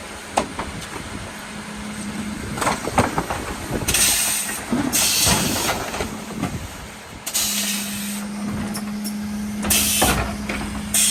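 Mercedes Econic refuse truck running with a steady hum, with a few clunks early on and then five short, loud hisses of compressed air, each under a second.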